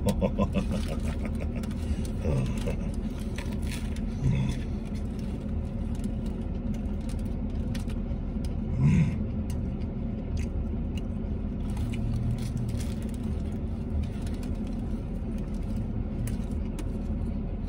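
A man chewing a mouthful of steak sandwich, with scattered wet mouth clicks and a couple of short hummed "mm" sounds about nine and twelve seconds in. Under it runs the steady low rumble of a car's cabin.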